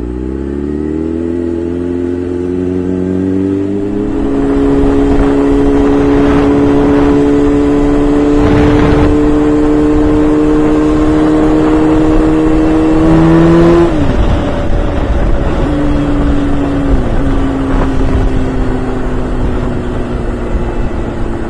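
Honda CBR600 F4i inline-four sport bike engine pulling up through the revs, then holding a high steady note under heavy wind rush at riding speed. About two-thirds of the way through, the engine note dips sharply three times and settles a little lower.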